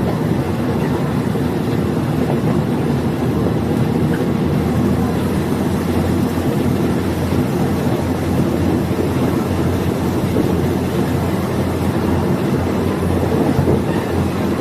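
Diesel multiple unit train under way, a steady loud rumble of engine and wheels on the rails.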